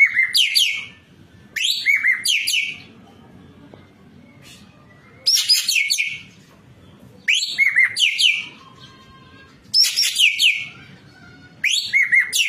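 Ekek keling bird singing in six bursts of rapid, shrill chattering notes, each about a second long, repeating every two to four seconds.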